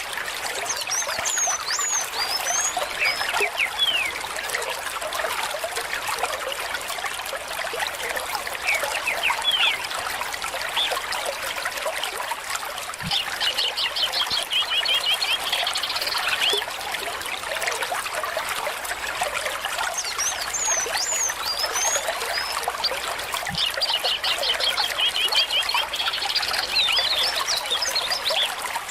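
A small stream trickling and burbling steadily, with birds singing over it: short high chirps, and a rapid trilled song heard twice, about halfway through and again near the end.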